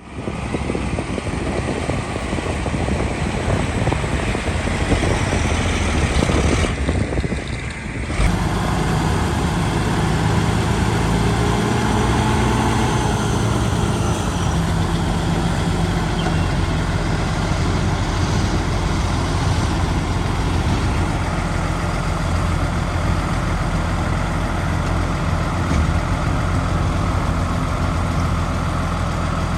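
Heavy diesel earthmoving machinery running steadily, with a low engine rumble. The sound changes abruptly about eight seconds in.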